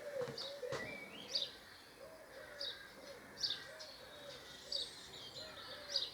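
Birdsong: a pigeon cooing in a steady repeated phrase, with small birds chirping over it. There is a light knock near the start.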